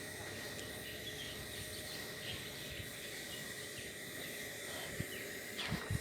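Steady outdoor ambience: a constant high insect drone over an even hiss, with a few faint short chirps.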